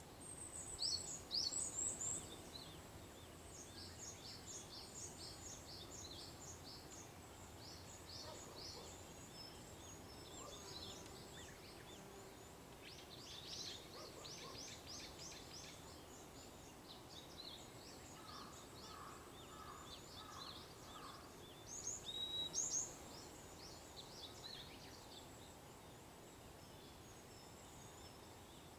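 Small songbirds calling at dawn: many quick, high chirps and trills scattered throughout, busiest in the first half, with a short run of lower repeated notes about two-thirds of the way through, over a faint outdoor hiss.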